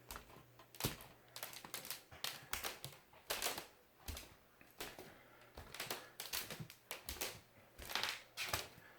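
Truswell Hickory laminate flooring crackling and cracking underfoot as someone walks on it: irregular sharp clicks and snaps, like walking on Rice Krispies. The floor has buckled in summer humidity, which the store blamed on running it in one continuous piece.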